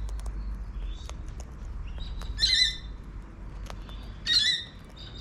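Wild cockatoo calling: two short, loud calls about two seconds apart, with fainter chirps and a few faint clicks between them.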